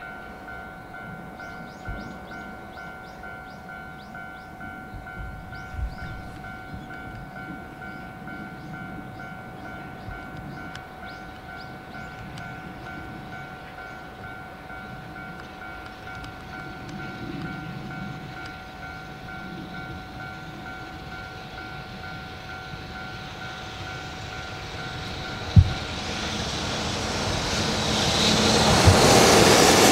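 A level-crossing warning bell rings steadily while the EF66-20 electric locomotive hauling container wagons approaches, its rumble and wheel noise growing louder over the last several seconds until it is close by. One short thump about 25 seconds in.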